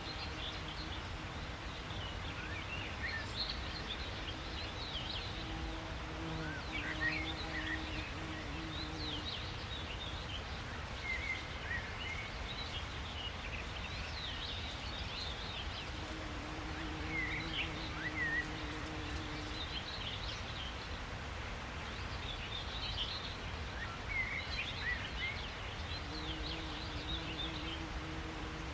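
Several small birds chirping and twittering in short clustered bursts over a steady low background rumble, with a faint low hum that comes and goes.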